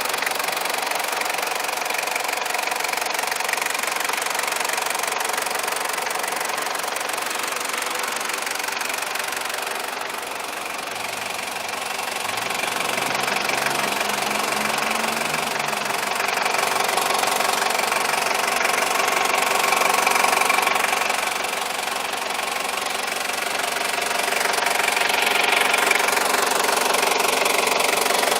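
1996 Toyota Land Cruiser Prado's 3.0-litre turbodiesel four-cylinder idling steadily with its usual diesel clatter, a little louder and quieter at times.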